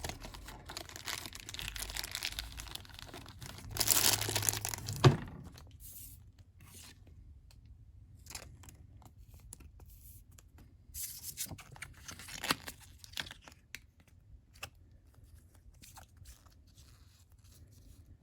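Trading cards and their plastic sleeves being handled: rustling and crinkling of plastic, loudest around four to five seconds in and ending in a sharp click, then a few quieter rustles later.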